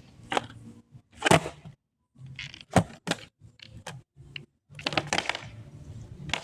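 A knee joint cracking and popping: a series of short, sharp cracks at uneven intervals, about half a dozen in a few seconds.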